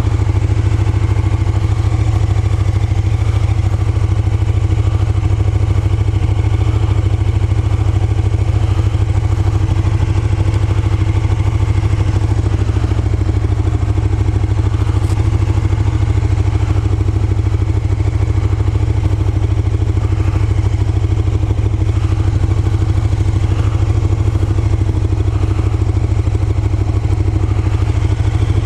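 Motorcycle engine running steadily at an unchanging pitch, with no revving.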